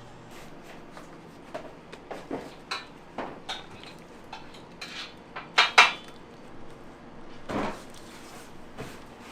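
Kitchen utensils and dishes clattering: a run of sharp clinks, the two loudest close together a little over halfway through, then a duller knock near the end.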